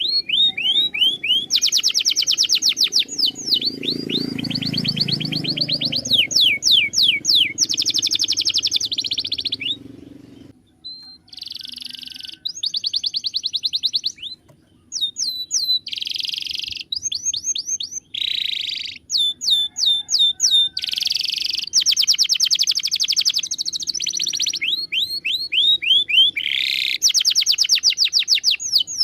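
Canary singing a long song of fast trills and rolls, each phrase a rapid run of the same note repeated many times a second, with short pauses between phrases.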